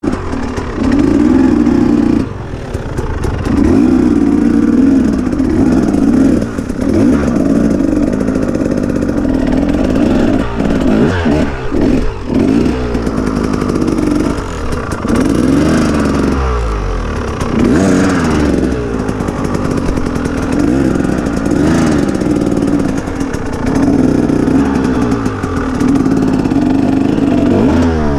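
KTM EXC enduro motorcycle engine being ridden off-road, revving up and easing off again every couple of seconds, with some clattering knocks around the middle.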